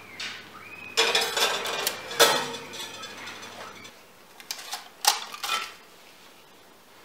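Dishes and cutlery clattering: a long run of clinks about a second in, another starting just after two seconds, then a few sharper single clinks around five seconds.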